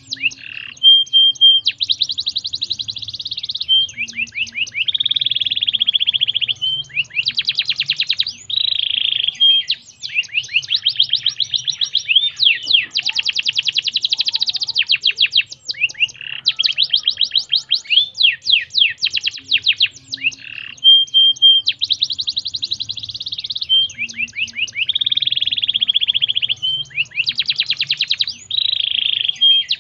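Domestic canary singing a long, continuous song of rapid trills, each a fast run of repeated notes, broken now and then by short steady whistles. The same sequence of phrases comes round again about twenty seconds on.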